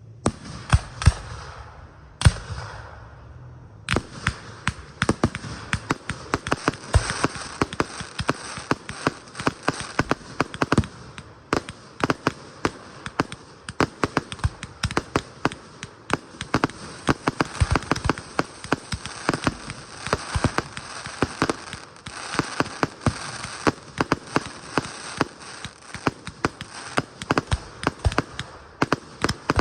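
Aerial fireworks going off: a few loud, separate bangs in the first seconds, then from about four seconds in a dense, continuous crackle of rapid pops and reports, many a second, that runs on to the end.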